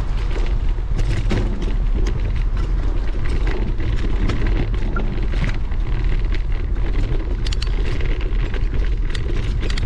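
Riding a bicycle in the rain: wind buffets the microphone with a heavy steady rumble, and scattered sharp clicks and rattles sound over it.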